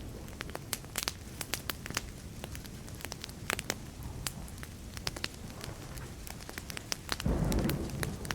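Wood fire crackling, with sharp irregular pops over a low steady hiss. A short low rumble of thunder comes about seven seconds in.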